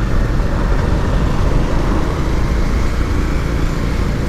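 Motorcycle running at a steady pace while being ridden, a constant low rumble.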